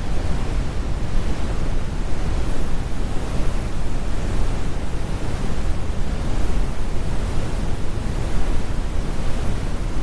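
Synthetic brown noise: a steady, even rumble of random noise weighted heavily toward the low end, with the highs rolled off and no pitch or rhythm.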